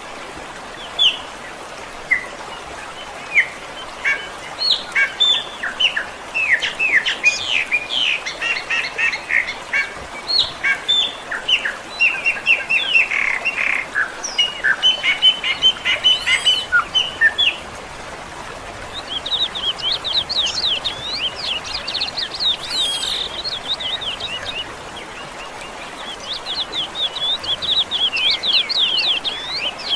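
Songbirds chirping and singing in many short, overlapping calls, turning to quick trilled runs in the second half, over a steady faint background hiss.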